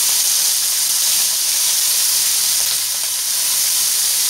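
Whole prawns rubbed with salt and turmeric sizzling in hot mustard oil in a frying pan: a steady frying hiss.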